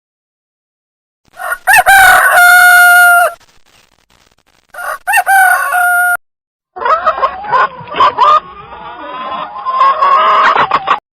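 Rooster crowing twice, each crow rising and then held on a long steady note, followed by about four seconds of varied chicken calls.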